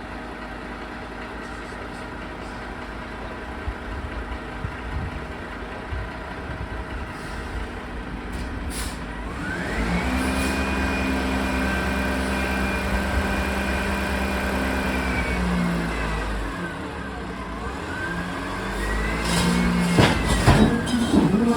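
Heavy Mack truck diesel engine idling, then revving up with a rising whine about nine seconds in, holding at higher revs for several seconds and dropping back. It revs and falls again near the end, with a few sharp metal knocks.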